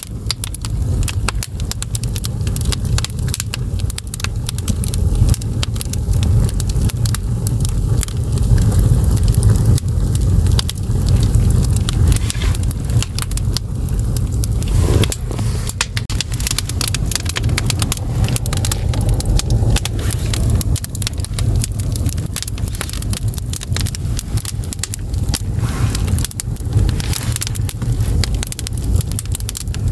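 Split firewood crackling and popping as it burns in an agungi, the wood-fired firebox under a Korean ondol floor: dense, irregular snaps over a steady low rumble.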